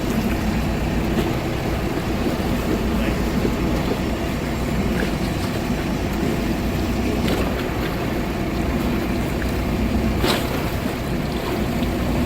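A motorboat's engine running steadily, with water rushing past the hull. There is a brief sharp click about ten seconds in.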